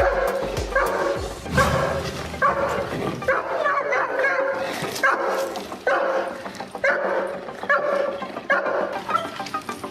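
Dog barking repeatedly in a steady run, about two barks a second.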